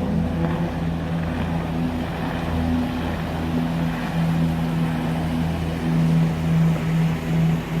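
Lagoon 42 catamaran's engines running steadily under power, a constant low hum, with the rush of water and wind over it.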